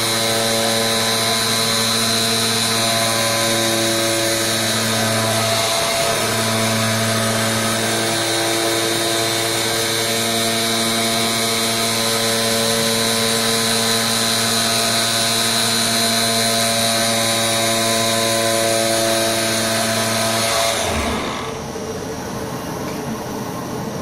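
Flatbed digital CNC cutter running: a steady mechanical motor hum with a fixed pitch and a high whine. About 21 seconds in it drops to a quieter, rougher machine noise.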